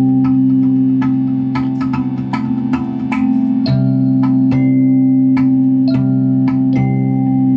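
Handpan (hang) played in a steady pattern of struck notes that ring on, about two to three strikes a second, over a steady low drone.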